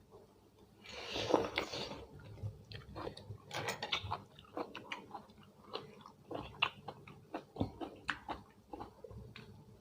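A person eating close to the microphone: a crunchy bite about a second in, then chewing with many short wet clicks of the mouth.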